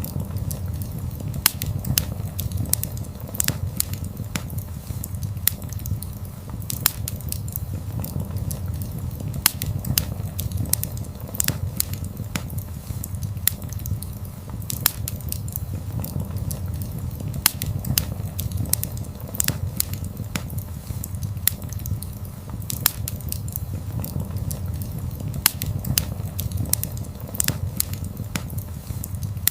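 Wood fire burning: frequent irregular crackles and sharp pops over a steady low rumble of the flames.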